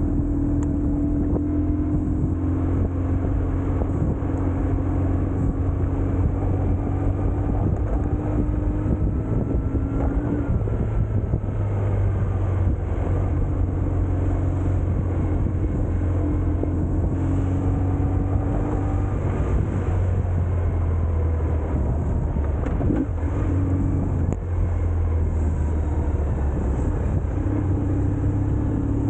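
BMW R1150GS Adventure's boxer-twin engine running steadily while riding in traffic. A higher drone comes and goes every few seconds over a constant low engine note.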